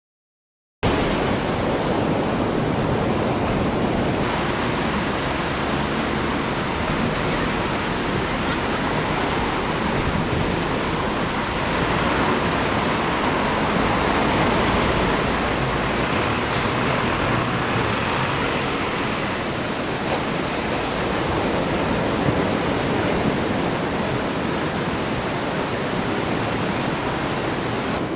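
Steady rushing noise that starts abruptly about a second in, after dead silence.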